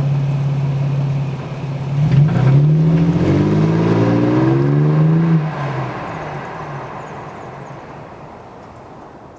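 Engine and Borla exhaust of a 2008 Toyota Tacoma with an aFe cold air intake, running steadily, then accelerating about two seconds in with the pitch rising. After about five seconds it eases off and fades away.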